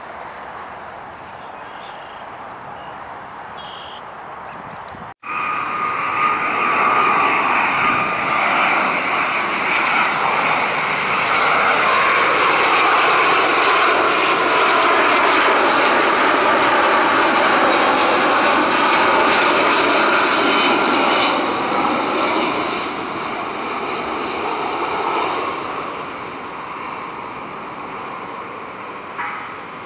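Jet airliner's engines passing close: a steady jet roar with a high fan whine builds after a cut about five seconds in. It stays at its loudest for several seconds, then fades away.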